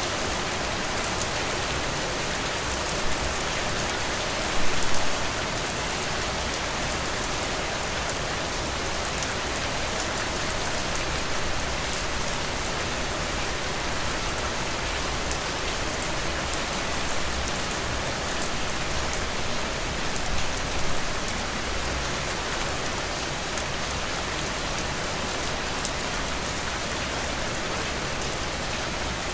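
Heavy rain falling on a roof, a steady dense hiss of drops with fine pattering ticks. A few brief louder spatters come through, the biggest about five seconds in and again about twenty-one seconds in.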